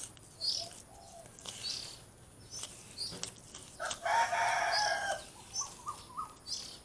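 Short high bird chirps repeating about once a second, with a rooster crowing once about four seconds in, the loudest sound, followed by a few short lower notes.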